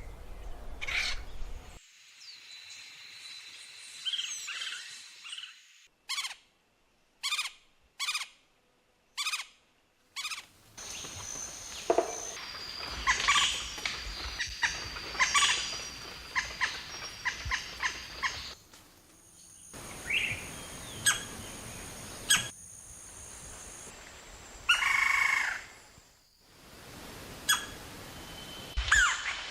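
Calls and songs of several different wild bird species, heard as short separate recordings cut one after another. One stretch holds five separate sharp call notes about a second apart.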